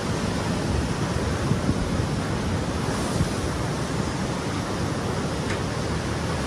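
Heavy surf in strong wind: a steady rush of waves surging and breaking, with wind rumbling on the microphone.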